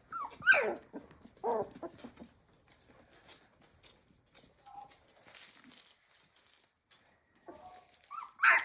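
Mini Bernedoodle puppies whimpering: two short whines that fall in pitch near the start, and another near the end.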